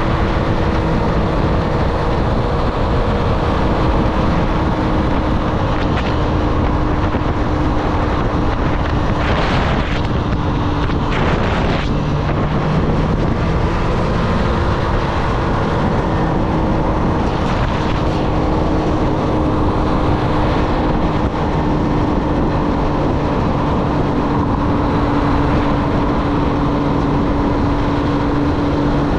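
Triumph Street Triple's inline three-cylinder engine running at a fairly steady pace while riding, with wind rushing over the microphone. The engine note holds steady, dropping a little about twelve seconds in and again near the end, with two short swells of rushing noise around ten seconds in.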